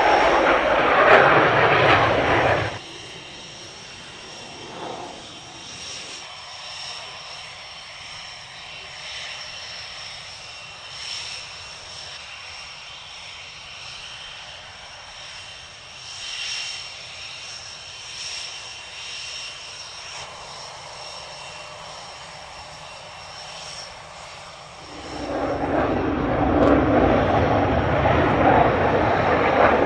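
Panavia Tornado jets' RB199 turbofan engines passing overhead in formation. The jet noise is loud for the first three seconds, drops suddenly to a faint hiss for about twenty seconds, then rises loud again about five seconds before the end.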